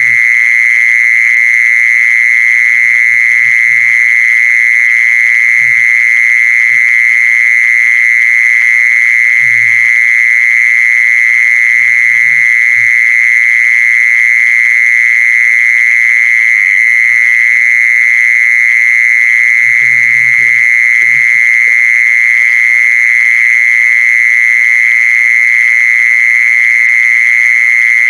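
Mole cricket calling: one continuous, steady high-pitched trill that does not break. A few faint low knocks are heard here and there.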